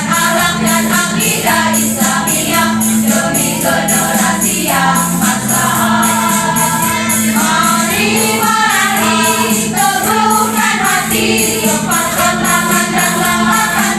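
Choir singing in parts over a steady, evenly spaced beat of high percussive strikes.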